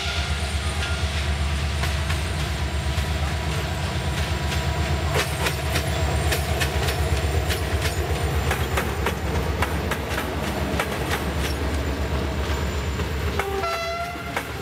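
An EGM class 65 diesel locomotive's engine drones steadily as the train passes, and the coach wheels clack over rail joints in quick runs through the middle. A train horn sounds near the end.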